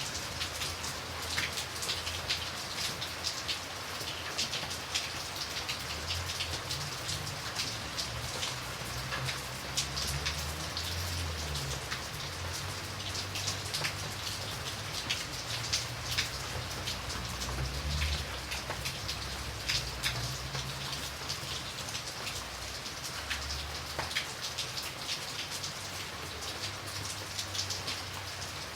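Steady rain falling, with many close drops striking a surface as sharp ticks over an even hiss, and a low rumble that swells and fades underneath.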